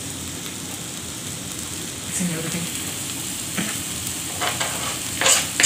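Sliced okra with onion and dried red chilies frying in a non-stick pan: a steady sizzle, with a spatula stirring it now and then.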